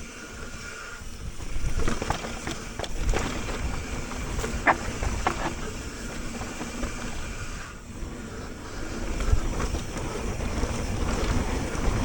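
Mountain bike rolling down a dirt trail, tyres on dirt with short knocks and rattles over brake bumps, and wind noise on the microphone.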